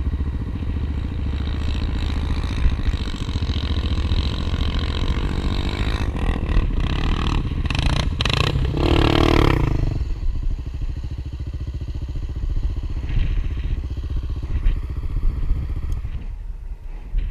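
Honda Tornado 250 single-cylinder trail motorcycle engine running under throttle. It swells to its loudest with a burst of revs about eight to ten seconds in, then drops back to a quieter, lower run.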